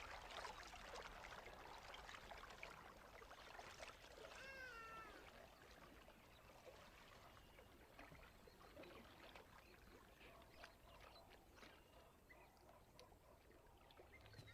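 Faint outdoor night ambience of soft scattered clicks and rustles, with one short animal call whose pitch bends up and down about four seconds in.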